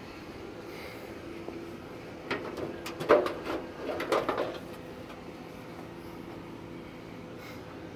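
A short clatter of knocks and rattles from a car body part or tools being handled, starting about two seconds in and lasting a couple of seconds, the loudest knock about three seconds in, over a steady low hum.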